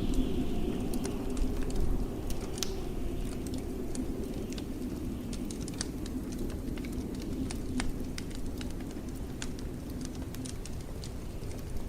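Wood fire crackling with irregular sharp pops over a steady low rush of blizzard wind.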